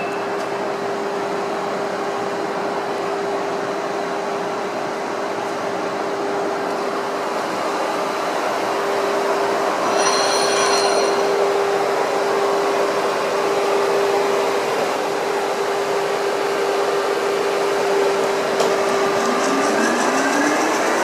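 VDF Boehringer DUE 800 engine lathe running, its spindle drive giving a steady gear whine over mechanical noise. A brief high ringing comes about halfway through, and near the end the whine rises in pitch as the spindle speeds up.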